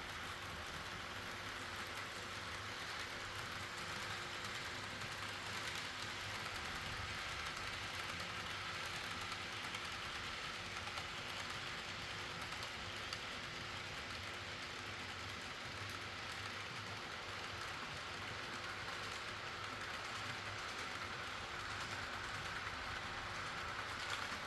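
HO-scale model train running steadily along its track, a continuous rolling rattle of the wheels on the rails with a faint steady hum under it.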